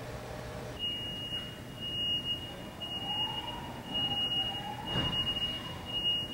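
Electronic beeper sounding a single high, steady tone in repeated beeps, about one a second, each roughly half a second long, starting just under a second in. A fainter lower tone slides up and down underneath.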